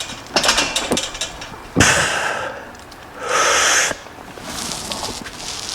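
A weightlifter's forceful, hissing exhalations while pressing bench press reps: two loud breaths about two and three seconds in, the first starting with a sharp knock, and a few light clicks before them.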